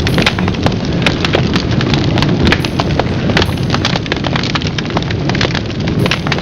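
Large bonfire of tree branches burning, with a steady rush of flame and many sharp crackles and pops.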